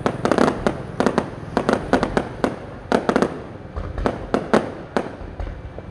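Aerial fireworks going off in rapid succession: a steady run of sharp bangs, several a second at uneven spacing, each with a short echoing tail.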